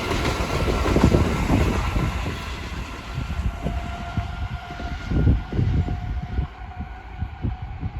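Pair of class 387 Electrostar electric multiple units passing as they pick up speed, wheels knocking over the rail joints, with a steady high tone coming in midway. The sound fades as the train pulls away.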